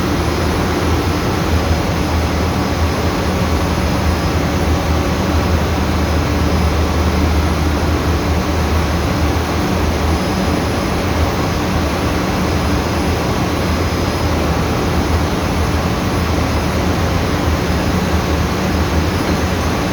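Ship's emergency air compressor running steadily to fill the emergency air bottle, a loud, even machine drone with a strong low hum.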